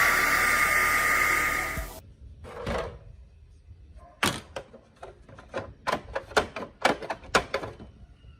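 A small electric power tool runs for about two seconds, its whine rising and then holding steady, and cuts off suddenly. After that comes a quick run of about a dozen sharp metallic-sounding taps and knocks.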